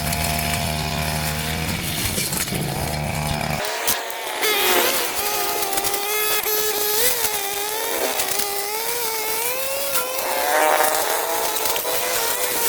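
A small engine-driven garden power tool running. A steady low hum fills the first few seconds; after a short drop about four seconds in, a higher engine note follows that wavers up and down in pitch.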